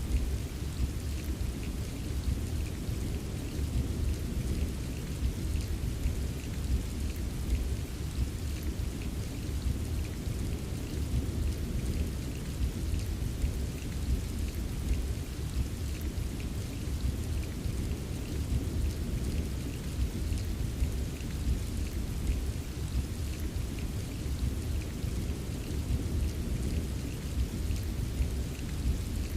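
Steady rain pattering, over a constant deep rumble of distant rolling thunder with no single sharp clap.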